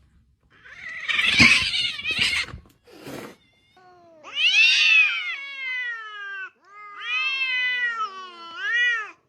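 A cat yowling in long, drawn-out wails that rise and fall in pitch: two long wails, then a shorter one near the end. They follow a rough, noisy scuffle-like sound in the first couple of seconds.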